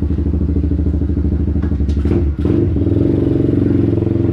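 Stomp pit bike's small single-cylinder four-stroke engine running steadily at a fast idle, with a brief knock or clatter about two seconds in.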